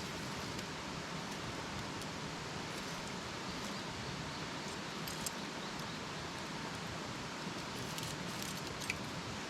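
Wood campfire burning: a steady hiss with scattered sharp crackles and pops, a few of them bunched together near the end.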